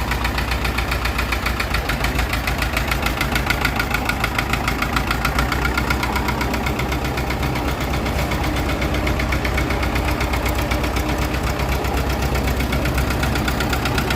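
David Brown 950 tractor engine running steadily at idle, with an even, fast, knocking firing beat.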